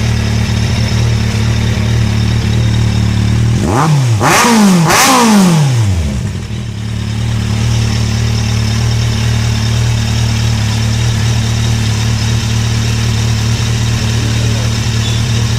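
A 2016 Kawasaki Z800E's inline-four idling through an SC-Project GP M2 exhaust with the dB killer fitted. The throttle is blipped twice in quick succession about four seconds in, and the engine then drops back to a steady idle.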